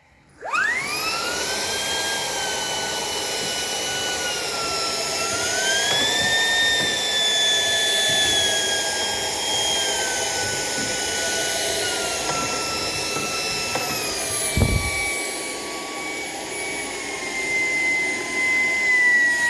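Shark PowerDetect vacuum motor switched on and spooling up quickly to a loud, high whine. The whine rises in pitch about five seconds in, then slowly sinks over the second half. One low knock sounds about two-thirds of the way through.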